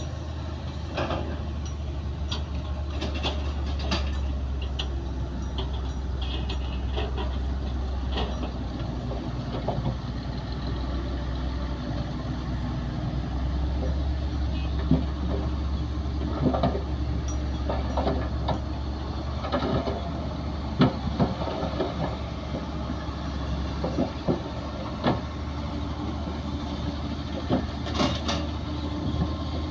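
Bulldozer's diesel engine running with a steady low drone, with scattered clanks and knocks as it pushes soil.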